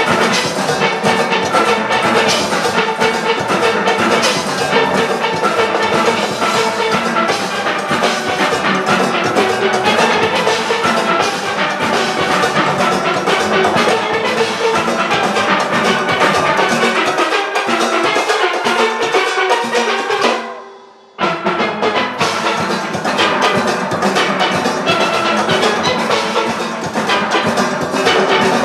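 A large steel orchestra plays a full-band arrangement: massed steel pans over drum-kit and percussion rhythm. About two-thirds through, the sound fades and breaks off for under a second, then resumes.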